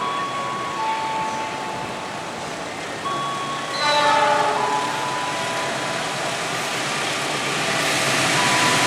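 Locomotive horn on a coal train sounding in long held notes, joined about four seconds in by a fuller chord of several tones. The train's running noise builds toward the end as it draws closer.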